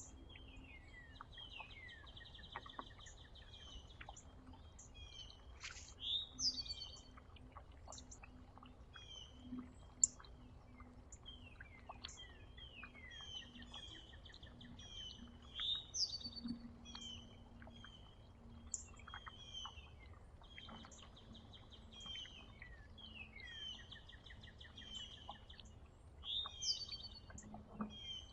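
Several small songbirds chirping and calling over one another, with short downward-slurred chirps and a few buzzy trills, under a faint steady low hum.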